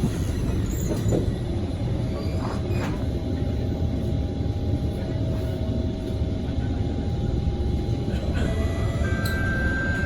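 Interior of a Kawasaki Heavy Industries C151 metro car running on the East West Line: a steady low rumble of wheels on rail, with the electric traction motors' whine appearing over it and rising gently in pitch near the end.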